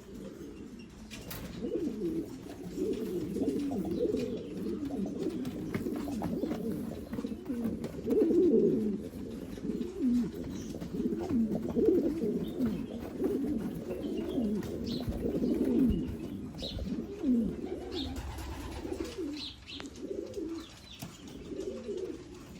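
Several Blondinette frill pigeons cooing, many low coos overlapping one another, with a few short high peeps in the second half.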